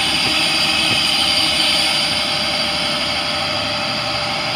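International DT466 turbo diesel running steadily while driving the boom truck's crane hydraulics, with a steady high hiss of hydraulic flow over the engine as the crane is operated.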